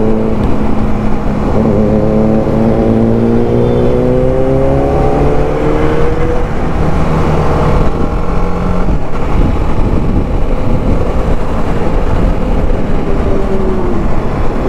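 Motorcycle engine accelerating, its pitch rising steadily for about six seconds, then running on under a loud steady rush of riding noise. Near the end the pitch drops briefly.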